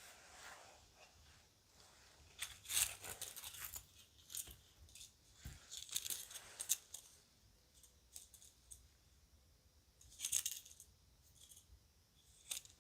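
Small pieces of children's jewelry clinking and rattling as they are handled, in three bursts of quick light clicks with scattered single ticks between.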